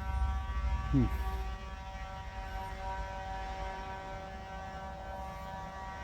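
Loud, steady droning hum made of several held tones. A low rumble fades out in the first second and a half, and a short sound slides down in pitch about a second in.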